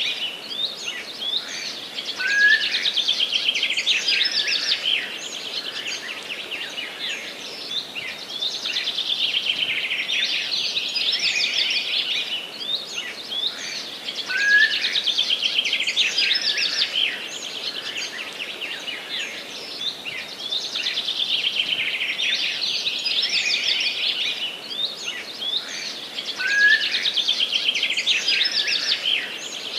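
Forest songbirds singing, a dense, continuous run of chirps and trills. A louder phrase that opens with a short upward note comes about every twelve seconds.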